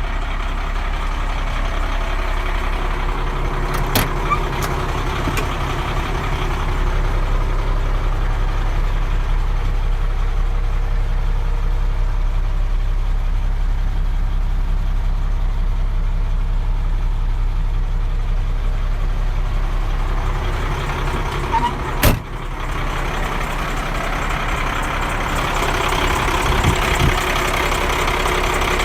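1995 Ford L8000 truck's diesel engine idling steadily. A few light clicks come about four seconds in, and a single sharp knock about three quarters of the way through. The engine grows louder and fuller near the end.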